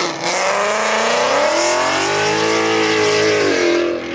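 A car engine revving hard: its pitch climbs over the first couple of seconds, holds, then drops away near the end.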